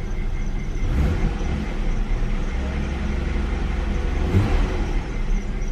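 Car engine running, with the revs held up for a couple of seconds in the middle and rising briefly near the end. A faint, steady chirping from a squeaky accessory belt runs underneath.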